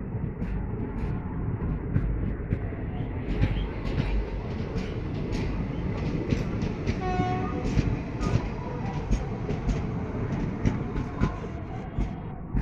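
Express train rolling past with a steady rumble and rapid clicking of wheels over the rail joints, and a short horn blast about seven seconds in.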